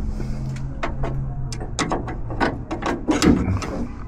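Irregular sharp metallic clicks and rattles from the door latch rod and its small keeper clip being handled and fitted inside a Jeep YJ door, over a faint steady low hum.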